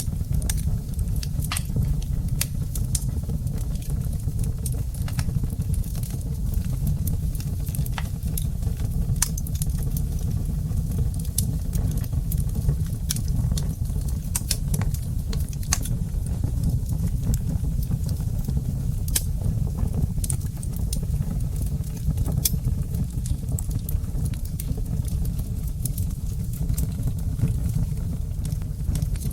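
Wood fire burning in a fireplace: frequent sharp, irregular crackles and pops from the burning logs over a steady low rumble of the flames.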